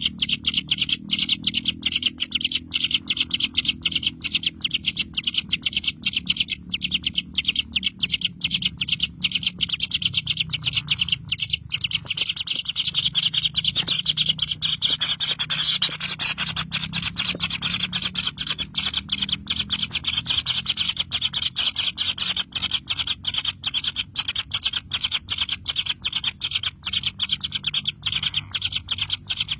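Birds giving a rapid, rasping chatter, many pulses a second without a break, over a low hum.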